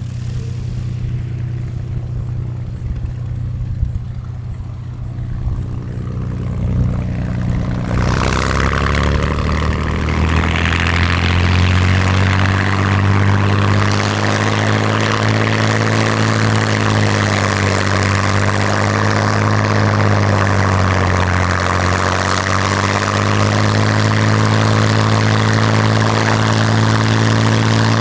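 WWII fighter's propeller-driven piston engine running steadily at low power; about eight seconds in it suddenly becomes louder and harsher and stays that way, its pitch wavering slowly.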